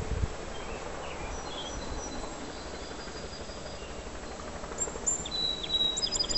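Small birds chirping faintly, with a quick run of high chirps near the end, over a steady outdoor background hiss.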